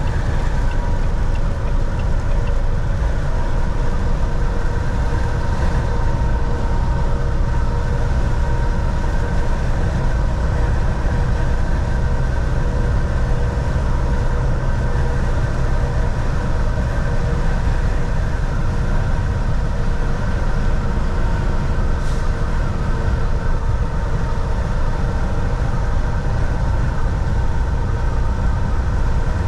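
Volvo VNL 760 semi truck cruising, heard from inside the cab: a steady, even diesel engine and road rumble with a few faint steady whining tones over it.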